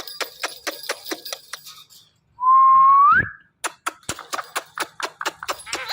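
Indian ringneck parrot making a rapid run of sharp clicks, about five a second, broken about two and a half seconds in by one loud whistle that rises in pitch near its end.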